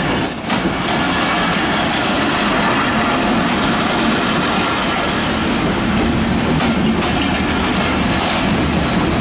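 Intercity passenger train rolling past close by: a steady, loud rumble of steel wheels on rails with faint clacks over the rail joints.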